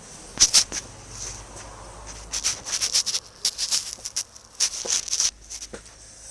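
Irregular scratchy rustling and crackling close to the microphone, in quick uneven clusters, ending about a second before the end.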